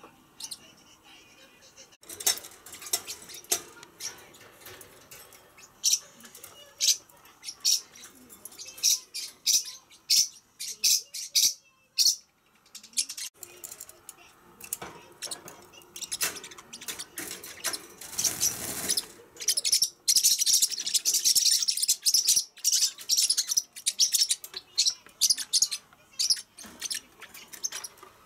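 Pacific parrotlet chirping: short, high chirps in scattered runs that thicken into continuous rapid chatter from about twenty seconds in. A little before the chatter there is a brief rush of noise.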